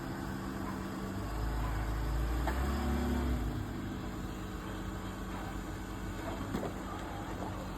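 Vehicle engine running steadily, its hum growing louder from about a second in for a couple of seconds before settling again. A single sharp click near the end.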